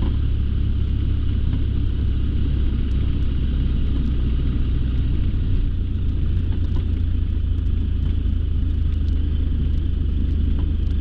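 Light aircraft's engine running at taxi power, a steady low drone heard from inside the cockpit, shifting slightly in tone about six seconds in.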